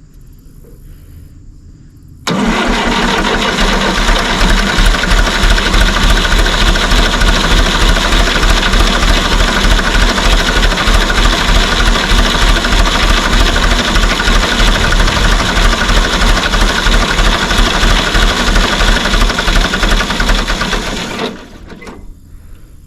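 1954 Fordson tractor engine being cranked over by its starter motor at full throttle, starting abruptly a couple of seconds in and cutting off sharply near the end, about nineteen seconds of cranking without the engine catching and running. The owner puts the hard starting down to a lot of air in the fuel system.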